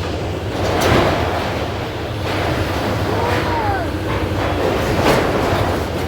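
Heavy construction machinery running with a steady low rumble. Louder noisy surges come about one second and five seconds in, and a faint short squeal sounds midway.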